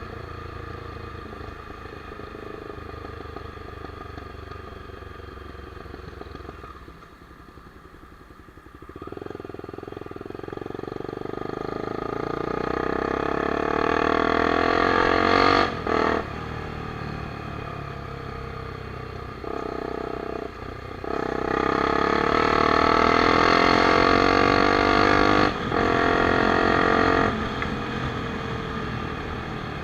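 Honda Twister 250's single-cylinder engine through an open straight-pipe exhaust, riding and accelerating through the gears. About seven seconds in the revs fall back for a couple of seconds, then climb twice in long pulls, each cut by a quick gear change, before settling to a steady cruise near the end.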